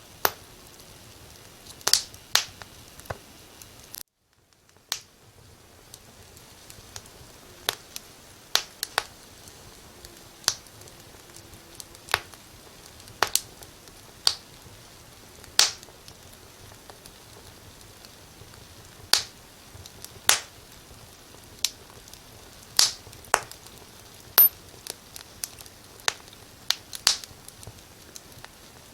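Wood fire crackling in a fireplace: sharp irregular pops and snaps over a soft steady hiss. The sound cuts out for about a second four seconds in, then the hiss fades back up.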